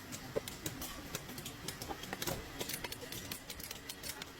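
Rapid, irregular light clicks and taps of hand tools working on metal parts.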